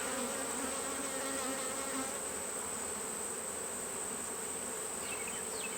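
Honeybees buzzing around an open hive: a steady, even hum from many bees, with a steady high-pitched whine running underneath.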